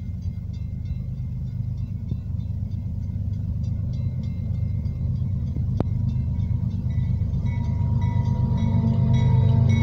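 Diesel-electric freight locomotive approaching, its engine rumble growing steadily louder, with a grade-crossing bell ringing rapidly and steadily over it.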